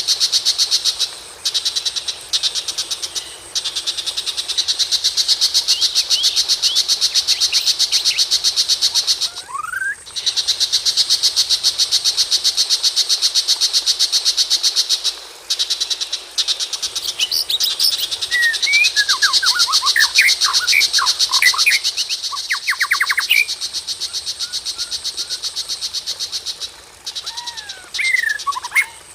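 A high, rapidly pulsing insect-like trill that stops and restarts every few seconds. In the second half, songbird calls come over it: quick whistled notes and a fast chatter, with a few more notes near the end.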